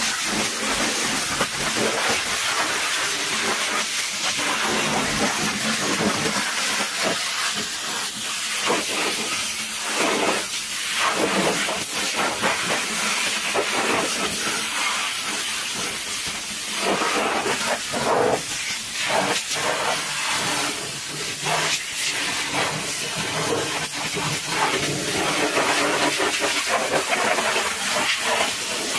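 High-pressure washer jet spraying water onto a muddy truck: a steady hiss that swells and thins as the spray sweeps across the surfaces.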